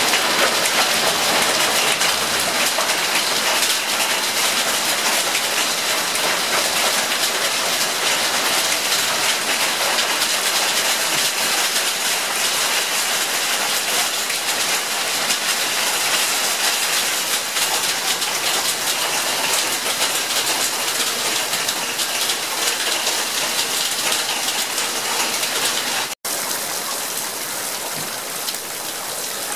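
Hail and heavy rain pelting down in a dense, steady patter, cutting out for an instant near the end.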